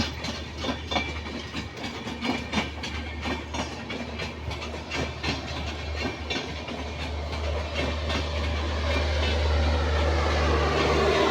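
Indian Railways train running on the track, its wheels clattering over rail joints in a quick, uneven run of clicks over a steady low hum. Over the last few seconds a louder, steady drone builds up.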